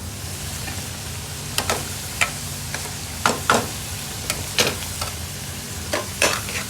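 Curry sizzling in a hot pan while a metal spoon or ladle stirs and scrapes it, with sharp clanks against the pan every second or so over a steady low hum.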